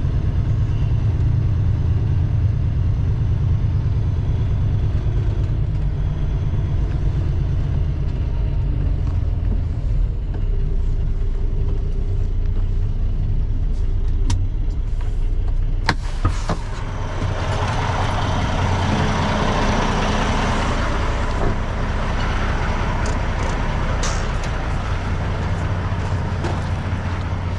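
Semi-truck tractor's diesel engine running steadily at low speed in low gear. About halfway through there is a sharp click, then a long rushing hiss that fades out over several seconds.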